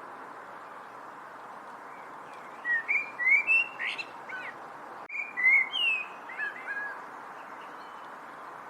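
A songbird singing two short phrases of quick, sliding whistled notes, the first about three seconds in and the second just after five seconds, over a steady background hiss.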